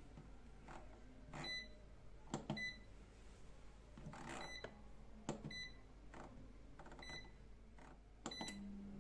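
Air fryer control panel beeping as its button is pressed: six short single beeps, each with a soft click, spaced a second or so apart as the cooking settings are dialled in. Near the end a low hum starts as the fan motor comes on.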